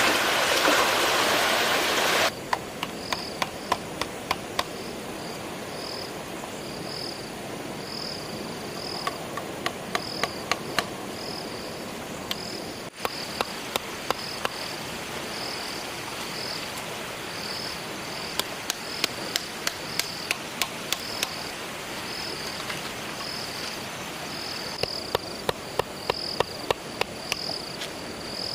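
Insects chirping, a high pulsed call repeated about twice a second, with short runs of sharp clicks every few seconds. A loud rushing noise cuts off suddenly about two seconds in.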